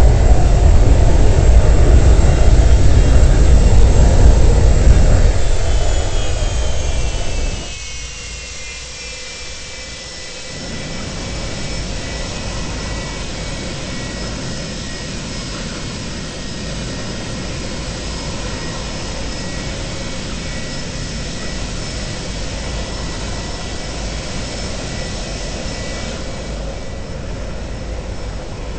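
Boeing 737-200's Pratt & Whitney JT8D jet engines spooling down from high power. A loud roar gives way as the whine falls in pitch, and the roar drops off sharply about seven seconds in. The engines then settle to a steady, much quieter whine.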